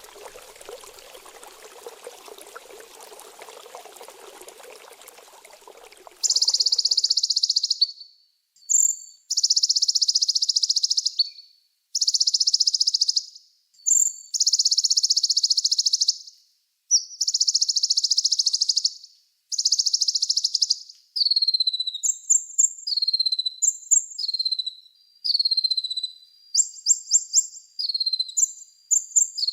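Running water for about the first six seconds, then a recorded small songbird singing: long high buzzy trills of about a second and a half each, repeated with short gaps, changing in the last third into shorter falling chirps and whistled notes.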